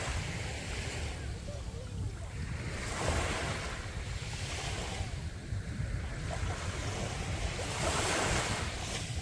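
Sea waves breaking and washing up on the beach, a new surge swelling every two to three seconds, with wind rumbling on the microphone.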